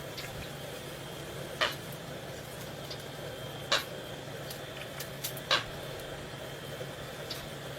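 Common coot giving short, sharp single calls, three in all, about two seconds apart, over a steady background hiss.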